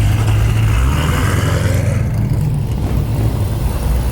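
A car engine running with a low, steady rumble that drops in pitch about a second in.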